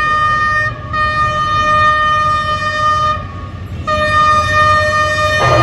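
Horn of a General Electric diesel locomotive sounding in long blasts, with two short breaks, over the steady low rumble of the engine. Near the end a loud rush of noise breaks in as the train comes past.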